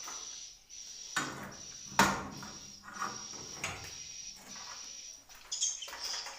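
A series of knocks and scrapes on wood, the loudest about two seconds in, over a steady high-pitched chirping tone, with bird chirps near the end.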